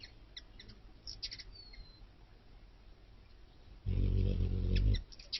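Short, high chips of hummingbirds at a feeder, with one brief thin whistle. About four seconds in, a loud low buzz lasts for about a second.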